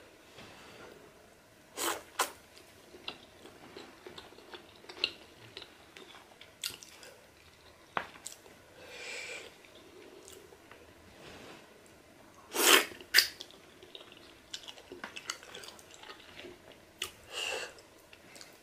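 Close-miked chewing of pork with small wet mouth noises, broken by a few short, sharp louder noises about two seconds in, around thirteen seconds in and near the end.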